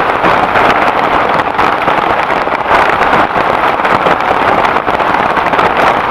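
Heavy rain falling steadily and loudly, a dense run of small drop impacts with no let-up.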